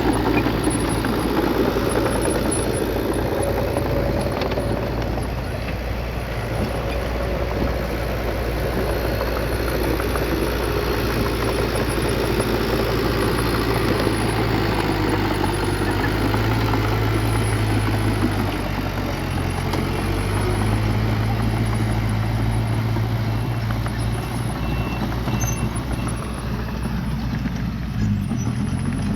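Bulldozer's diesel engine running steadily under work, with a low hum whose pitch dips and shifts a little about two-thirds of the way through and again near the end.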